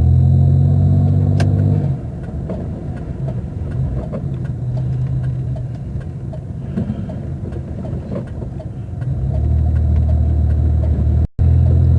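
Car heard from inside the cabin, its engine running with a steady low hum that turns into a rougher, unsteady rumble about two seconds in and settles back into the steady hum near the end. A single click sounds early on, and the sound cuts out for an instant near the end.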